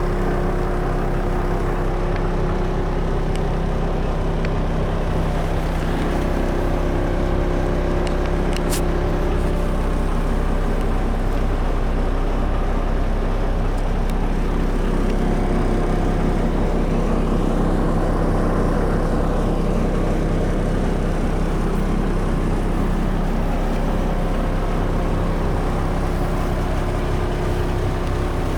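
Renault Midlum 220 dCi diesel truck engine running steadily at an even speed, without revving.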